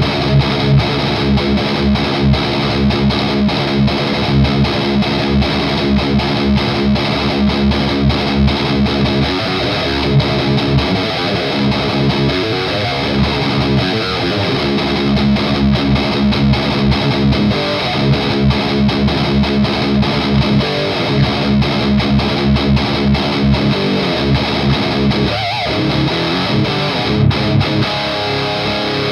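Electric guitar played through an overdrive pedal into a guitar amp: distorted, rhythmic chords and riffs with rapid picking.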